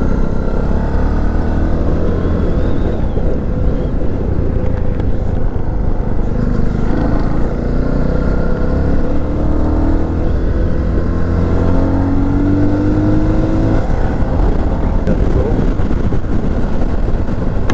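Herald motorcycle's engine running under way, with heavy wind and road noise on the microphone. The engine note climbs steadily from about seven seconds in, then drops suddenly around fourteen seconds.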